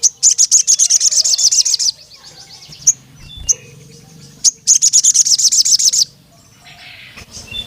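Male sogon (crimson sunbird) singing: two rapid, high-pitched trills of sharp chirps, each lasting about one and a half seconds, with single chirps between them.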